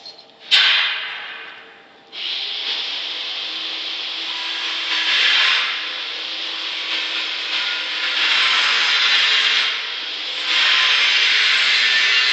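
CNC wood router cutting into wood: a sharp click with a short fading burst of noise, then from about two seconds in a steady rasping noise that grows louder in stretches, around five and nine seconds in and again from about ten seconds on.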